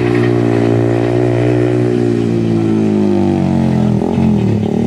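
Passenger train pulling away down the track, with a loud droning engine note that falls steadily in pitch as it recedes.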